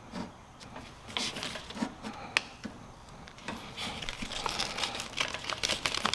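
Crinkling, rustling and small clicks of hands working a self-adhesive rubber bumper strip, its backing and the aluminum bow, with one sharp click near the middle.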